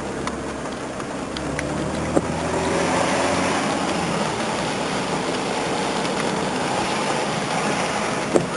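Car driving with its side window open: engine running, with tyre and wind noise swelling about two seconds in and holding steady. A few light knocks, the sharpest near the end.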